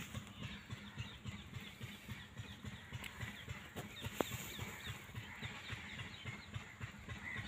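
Birds calling outdoors: many short, high falling chirps, thickest in the first half, over a rapid low fluttering rumble, with one sharp click a little past the middle.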